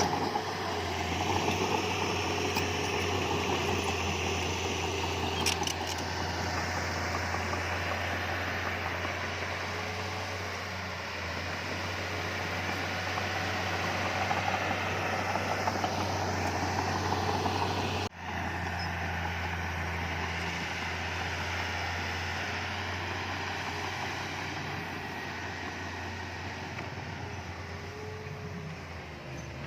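Heavy diesel earthmoving machinery running steadily with a constant low engine hum and mechanical clatter. The sound cuts out for an instant about eighteen seconds in, then carries on.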